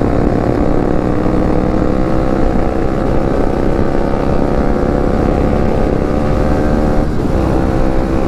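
Motorcycle engine running at a steady speed while riding. The note holds even, with a brief change about seven seconds in.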